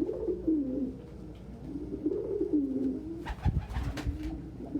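Domestic pigeons cooing, with several low, curving coos overlapping one after another. A brief rustle or knock comes about three and a half seconds in.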